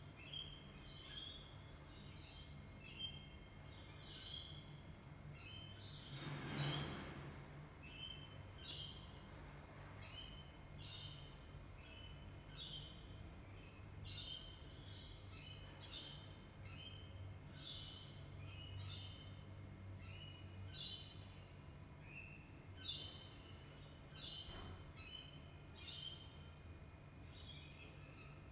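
A bird chirping repeatedly in short, high notes, about one or two a second, over a faint steady low hum. A brief soft whoosh of noise comes about six seconds in.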